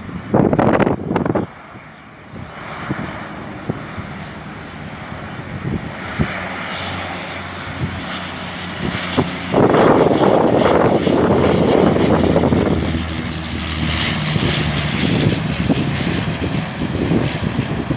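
An airliner's engines passing close by: a sustained engine noise with a steady low hum that builds, is loudest a little past the middle, then eases slightly but stays strong.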